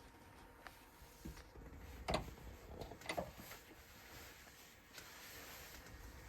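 Click-pen parts being pressed together in a bench vice used as a pen press: a few faint clicks and knocks, the two loudest about two and three seconds in.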